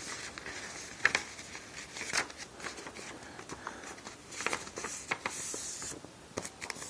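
A sheet of paper being folded and creased by hand into a paper airplane: soft rustles and crinkles with scattered light taps, and a longer rustle a little after the middle.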